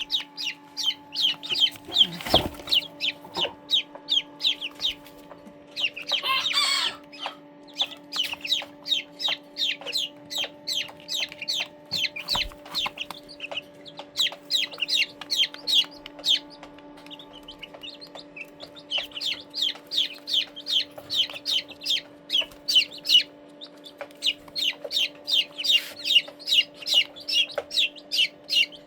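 Young chicks peeping while they feed: quick runs of short, high, falling peeps, several a second, with brief pauses between runs. A steady low hum runs underneath.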